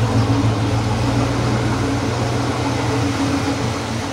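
Steady, fairly loud low mechanical drone from a running machine, easing off slightly near the end.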